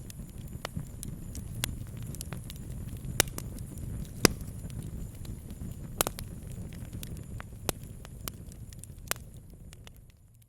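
Wood campfire crackling: irregular sharp pops and snaps over a low steady rumble, with a few louder pops along the way. The sound fades out near the end.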